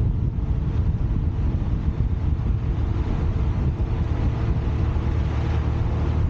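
Steady wind rush on a car-mounted exterior camera's microphone, with low road and tyre rumble from the car moving at speed.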